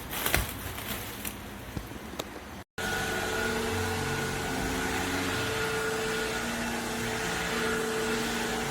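A few light clicks of handling, then, after a sudden cut, a steady machine whir with a held hum, as of a small electric motor running.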